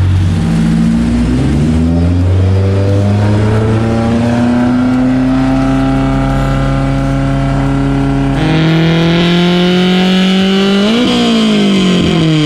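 Honda F22C1 inline-four in a Mercedes 190E on a hub dyno, making a full-throttle pull with the revs climbing steadily. About eight and a half seconds in the note turns harder and brighter as VTEC engages. The revs peak and fall away sharply about eleven seconds in, on the run where the driveshaft broke; the crew says it broke right when VTEC hit.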